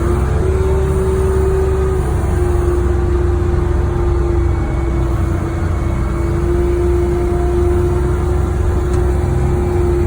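Wheel loader's diesel engine running steadily as it drives down the road, a low drone with a steady whine over it.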